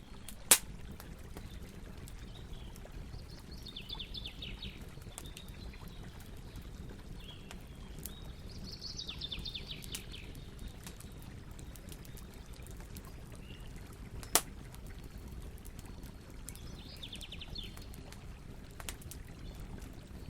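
Campfire crackling with scattered small snaps and two loud wood pops, one just after the start and one about two-thirds of the way through, over a steady low rumble. A bird trills three times in the background.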